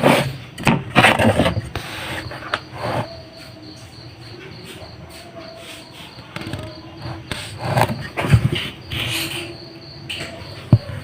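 Irregular rustling and knocking from a small speaker and its packaging being handled, with a sharp knock near the end.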